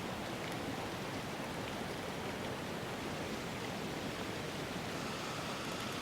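A steady, even rushing noise with no distinct events. A faint high tone comes in about five seconds in.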